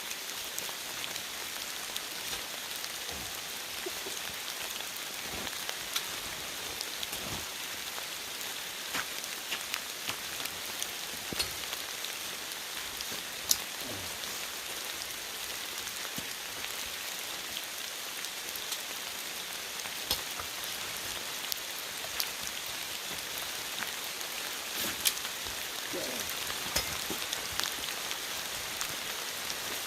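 Heavy rain pouring steadily, with scattered sharp taps of individual drops striking close by.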